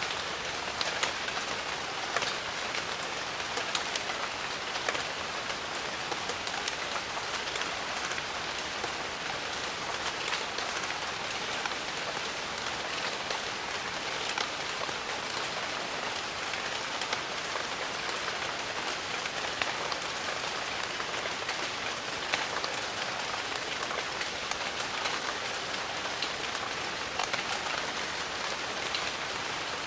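Steady heavy rain falling on foliage, an even hiss full of scattered close drop ticks.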